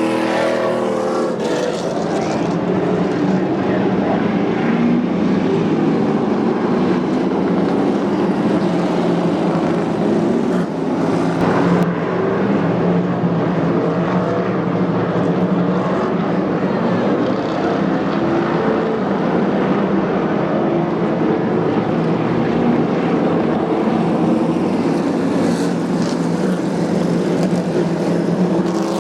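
Several race truck engines running together on the track, a steady mixed drone of overlapping engine notes that waver up and down.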